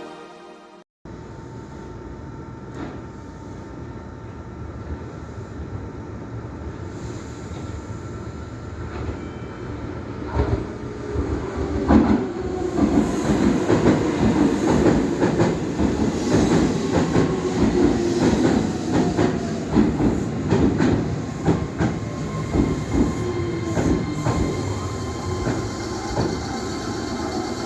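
Meitetsu electric train running on the rails, its wheels clattering over the rail joints; the noise builds from about a second in and is loudest from about twelve seconds on.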